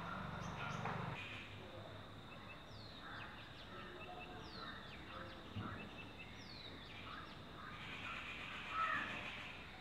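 Small wild birds calling in the background: a thin whistle falling in pitch, repeated three times about two seconds apart, among scattered chirps.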